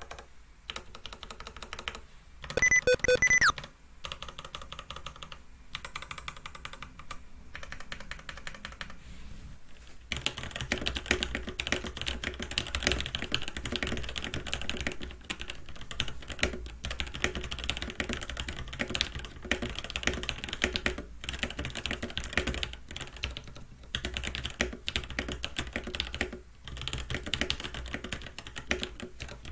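Rapid continuous typing on a Keychron C1 mechanical keyboard with Gateron G Pro Red linear switches and ABS keycaps. About ten seconds in, the typing becomes louder and brighter, played on the bare desk without a desk mat. A brief loud tone that drops in pitch at its end sounds about three seconds in.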